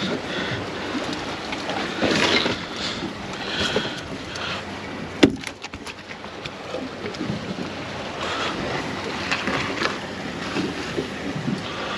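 Water lapping against a small boat's hull with wind on the microphone, and a single sharp knock about five seconds in.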